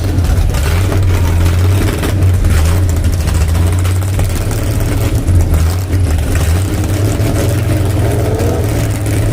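A motor vehicle's engine running close by with a steady deep rumble, its pitch holding level.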